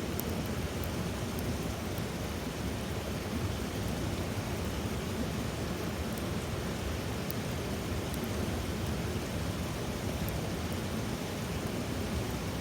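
Small wood fire burning in an ultralight fire stand, giving faint scattered crackles over a steady rushing noise.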